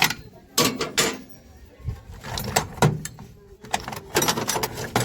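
Short bursts of metal clinking, clicking and rattling, densest in the last second and a half: tools being worked on a tractor's jammed steering.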